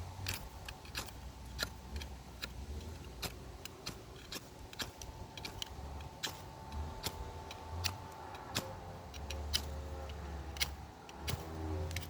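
A knife striking a ferrocerium rod over and over to throw sparks: short, sharp scrapes at an irregular pace, about one or two a second. A low rumble comes and goes beneath them.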